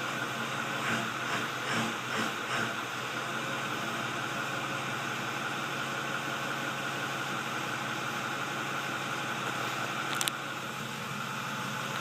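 2010 Ford 6.4L Power Stroke twin-turbo V8 diesel idling steadily through its stock exhaust with the DPF still fitted. A few brief swells in the first three seconds, and a sharp click about ten seconds in.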